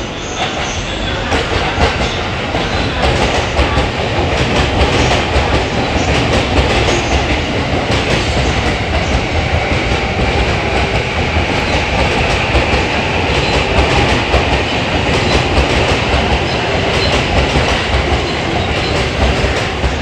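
A 15-car E231/E233-series electric commuter train running into the platform. Its wheels click over the rail joints under a steady rumble, which grows louder about a second in as the cars come alongside.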